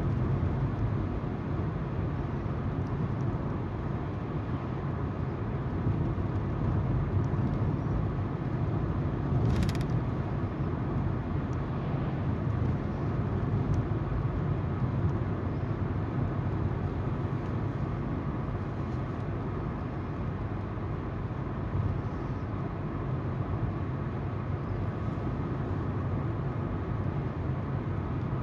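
Steady road noise of a moving car, tyres on the road and the engine's hum, with a brief hiss about ten seconds in.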